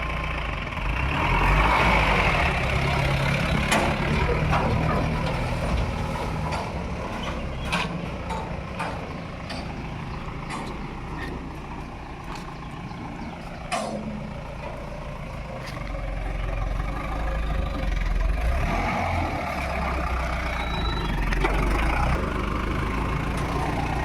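Mahindra pickup truck's engine running as it is driven, swelling louder a couple of times, with a few sharp knocks or rattles along the way.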